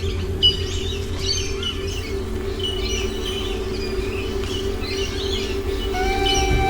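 Wild birds calling in native forest: short chirpy phrases repeated about once a second, over a steady low hum. Music comes in near the end.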